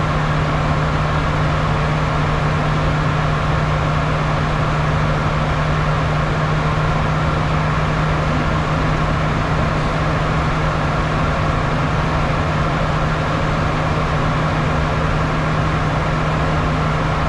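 Steady cabin noise of a Bombardier Challenger 350 in its climb, heard from inside the aircraft: the rush of air and the even drone of its twin Honeywell HTF7350 turbofans, with a constant low hum underneath.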